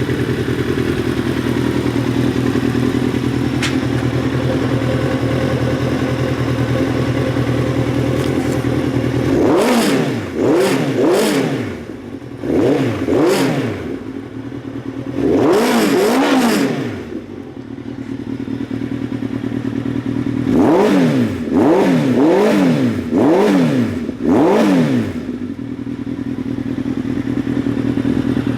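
2005 Kawasaki ZR1000 (Z1000) inline-four motorcycle engine idling steadily, then revved in quick throttle blips, several in a row, each rising and falling in pitch. It returns to a steady idle near the end.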